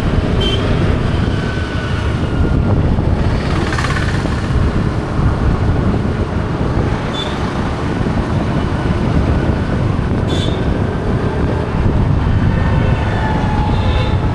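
Steady, loud low rumble of vehicle noise, with a few brief high-pitched tones about half a second, seven seconds and ten seconds in.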